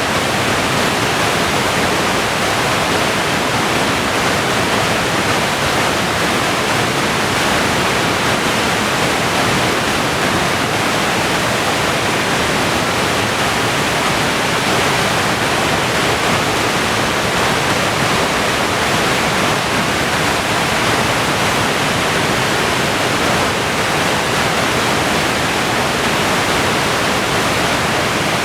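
Whitewater rapids of the Potomac River rushing: a loud, steady, unbroken wash of falling and churning water.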